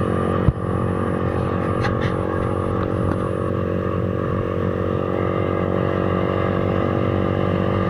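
Z200S/Z200X motorcycle's engine and exhaust running at a steady cruise while riding, with a single sharp knock about half a second in.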